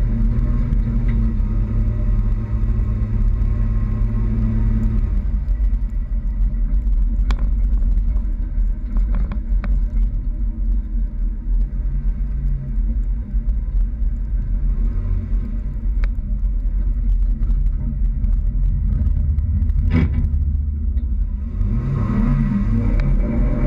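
Toyota Tacoma pickup driving, with a steady low engine and road rumble and a few sharp clicks. Near the end the engine note rises and falls.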